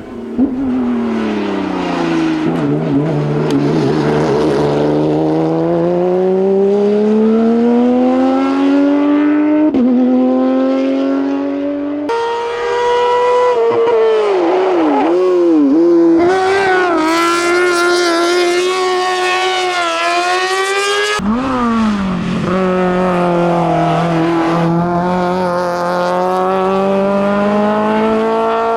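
Competition cars on a hillclimb run, engines at full throttle: the pitch climbs through each gear and drops sharply at each upshift. Several separate passes are cut together, one after another.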